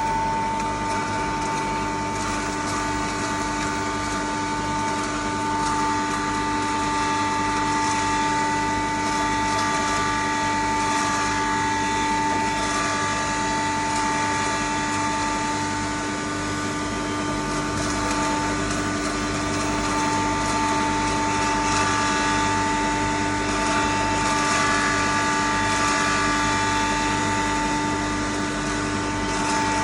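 A 10 HP double-chamber fine grinder with a 1 HP blower running steadily: a constant machine hum with a strong, unchanging whine over it.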